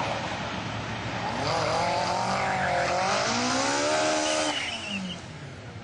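Drag car's engine revved hard during a burnout at the start line: the revs climb about a second and a half in, waver, then fall away and cut off after about four and a half seconds, with a brief tyre squeal near the end.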